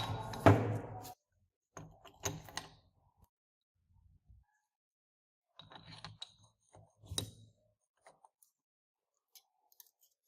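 Metal parts and hand tools clinking and knocking as they are handled and set down, in a few separate bursts of sharp clicks with pauses between.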